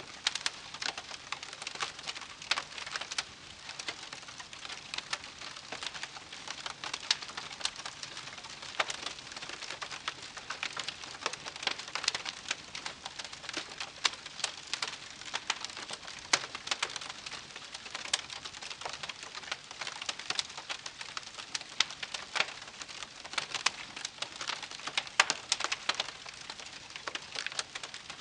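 Wood fire burning, with dense irregular crackles and pops over a soft hiss of flames.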